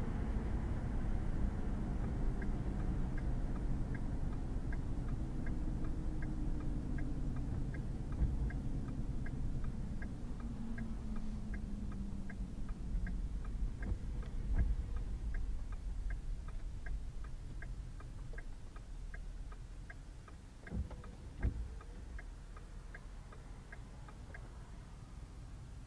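A pickup truck's indicator clicking steadily, about one and a half clicks a second, over engine and tyre noise that dies away as the truck slows to a stop. There are two short thumps near the end.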